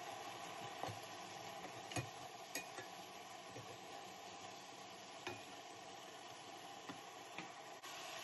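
Mince and onion sizzling in a stainless steel cooking pot as a spatula stirs it, with a few short taps and scrapes of the spatula against the pot.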